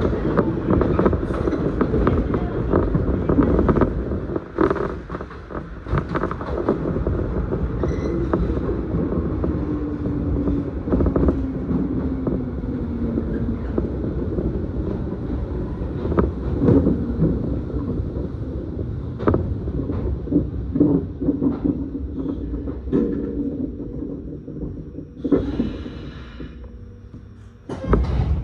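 Electric train running, heard from inside the passenger car: steady rail noise with clicks and knocks from the wheels and creaks from the car body. A motor tone falls in pitch about halfway through, and the running noise grows quieter near the end.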